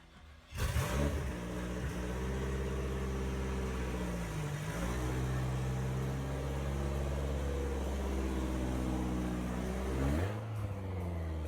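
Lotus Esprit V8 twin-turbo engine starting abruptly about half a second in and then running steadily, its pitch dipping and rising twice.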